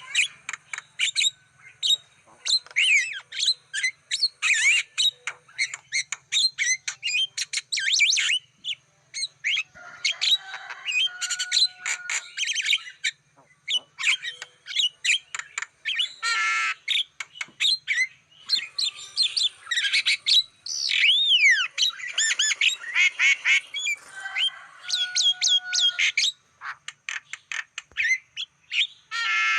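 Javan myna song: a fast, varied run of harsh squawks, clicks, squeaks and whistled glides, in bursts broken by short pauses.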